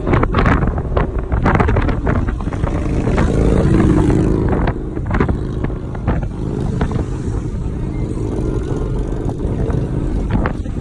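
Audi R8 V10 engine running as the car is driven, its tone swelling about four seconds in, with wind buffeting the microphone.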